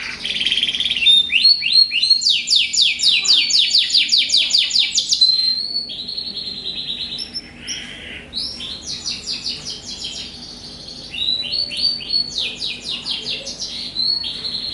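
Canaries singing back and forth in fast, high trills of rapidly repeated notes, with short pauses between phrases.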